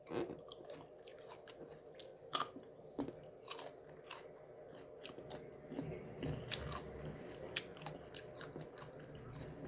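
Close-up biting and chewing of crisp, unripe mango: scattered sharp crunches and wet mouth sounds, coming thicker after about six seconds.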